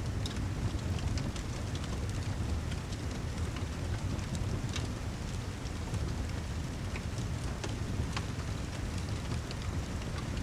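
Steady rain with a low rumble under it, mixed with the scattered sharp crackles and pops of a wood fire in a fireplace.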